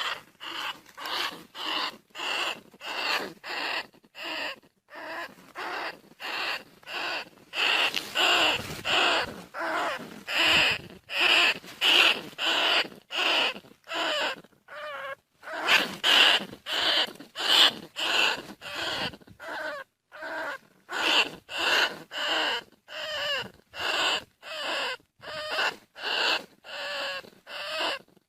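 Bandicoot rat calls: short squeaky cries repeated about twice a second with brief gaps, a call track played to lure field rats.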